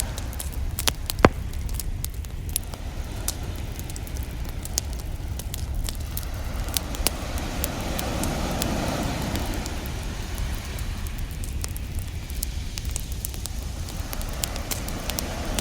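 Campfire crackling with frequent sharp pops, over a steady low rumble of ocean surf; a wave swells and washes in about halfway through and another near the end.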